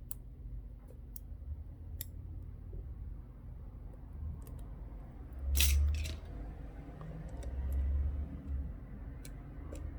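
Small sharp clicks of metal tweezers against phone parts, with a short louder rustle about halfway through as a plastic protective cover is picked off a front camera module.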